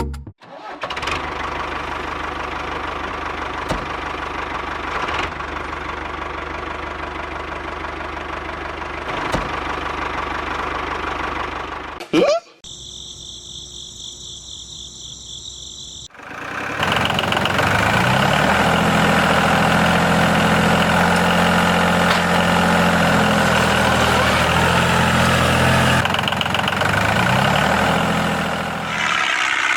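A small motor running steadily, the sound changing abruptly about twelve seconds in and again about sixteen seconds in, with a brief rising squeal at the first change.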